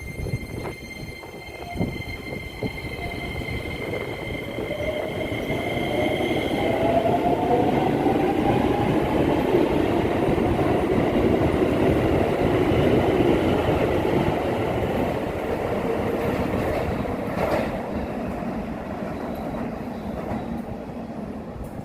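Electric commuter train moving through a station: a whine that rises in pitch as the train speeds up, over wheel-on-rail noise that swells to a peak midway and then fades. A few steady high tones sound in the first third and then stop.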